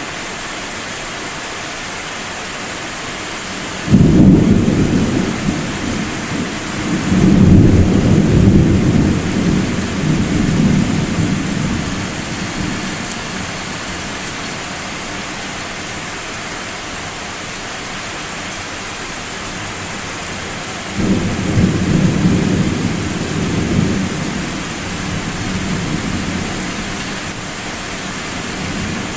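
Thunder over steady rain: a deep peal starts abruptly about four seconds in and rolls on for several seconds, swelling again before it fades, and a second rolling peal starts suddenly about two-thirds of the way through.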